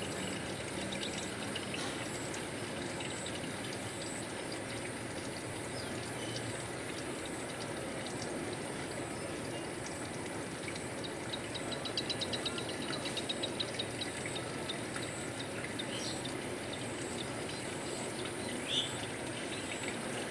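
Water trickling and flowing steadily. About halfway through, a rapid run of high, clicking chirps sounds for a couple of seconds, and a single short chirp comes near the end.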